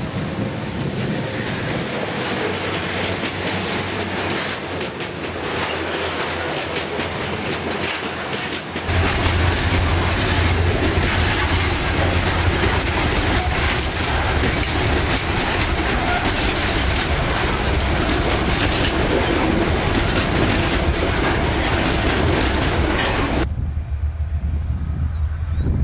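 Freight train's steel hopper wagons rolling by on the rails, the sound turning louder and fuller about nine seconds in as loaded grain hoppers pass close by. Near the end it gives way to a lower rumble as a diesel locomotive approaches.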